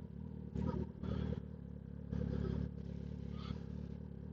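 Kawasaki ZX-10R's inline-four engine idling steadily, with a few brief louder rushes of noise over it.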